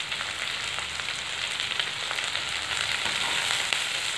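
Onions, mint and green chillies frying in oil and ghee in a kadai: a steady sizzle with small crackles.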